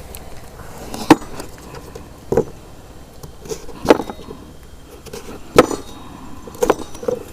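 Scattered knocks and clinks of cooking gear and ingredients being handled and set down, five sharp ones at irregular intervals of about one to one and a half seconds.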